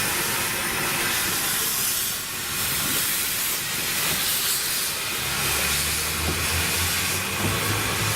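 A narrow-gauge steam locomotive giving off a steady hiss of steam. About five seconds in, a low engine-like hum joins it and steps up in pitch near the end.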